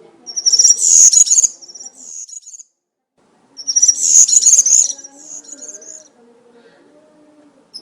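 European serin singing its fast, high-pitched jingling song in wild-type 'campero' style: two phrases of about two seconds each with a pause between, and a third beginning at the end.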